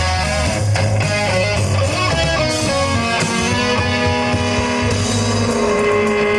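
Live rock band playing an instrumental passage led by electric guitar, with bass underneath; in the second half the notes are held longer.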